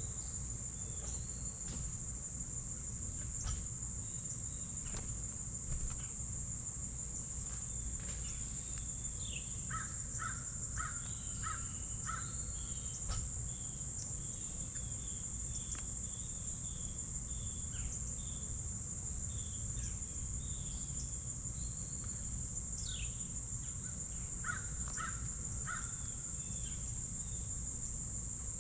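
Insects droning steadily at a high pitch, with wild songbirds calling over it: two clusters of short repeated notes and chirps, one in the middle and one near the end, with a few quick downward-sweeping calls.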